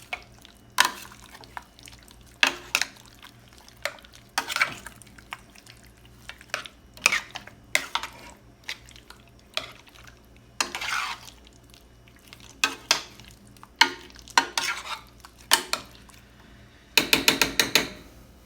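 A utensil stirring chicken pieces in mayonnaise, knocking and scraping against the dish at irregular intervals, with a quick run of clacks near the end.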